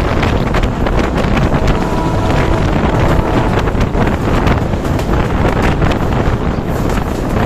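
Wind buffeting a microphone held out of a moving passenger train's window, over the train's running noise with its rattle of wheels on the rails. A faint steady tone sounds briefly about two seconds in.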